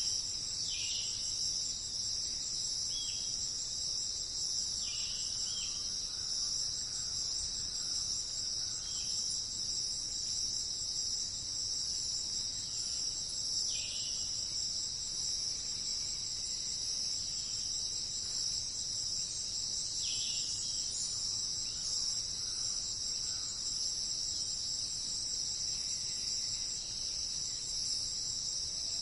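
A steady, high-pitched chorus of crickets or similar insects shrilling without a break. Over it come short, falling bird calls every few seconds.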